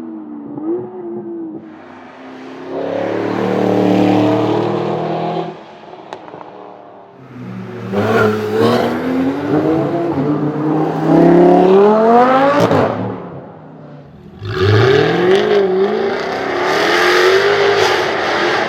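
Supercar engines revving and accelerating hard in three loud bursts. The pitch climbs steeply, drops back at a gear change, then climbs again.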